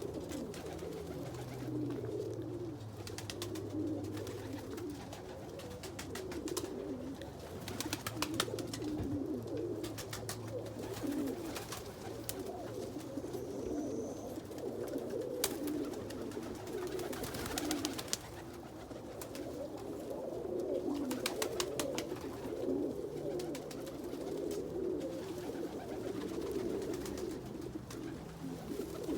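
Domestic pigeons cooing continuously, several birds overlapping, with clusters of sharp taps now and then.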